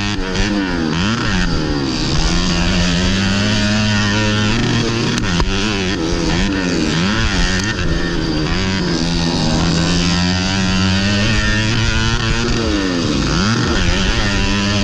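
Modified underbone motorcycle engine under race load, its note climbing and dropping again and again as the throttle is opened and closed and the gears change.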